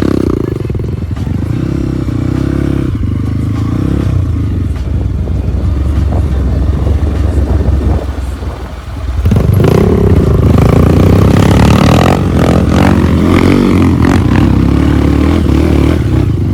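Trail motorcycle engine revving up and down as it is ridden, easing off briefly about eight seconds in, then pulling louder again with rising revs.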